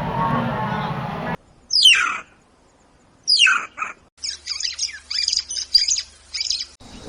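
Bird calls: two sharp calls sweeping steeply downward in pitch, then a quick run of high chirps. Before them, another animal's pitched call cuts off about a second and a half in.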